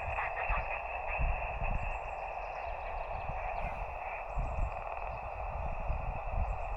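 Shortwave transceiver receiving single-sideband with no signal: steady band-noise hiss through its speaker, cut off sharply at the top by the narrow receive filter. Soft low thumps come and go throughout.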